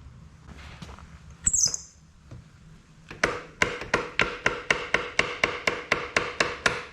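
A hammer striking metal in quick, even taps, about four a second for several seconds, each blow ringing. Earlier there is a brief high-pitched squeak.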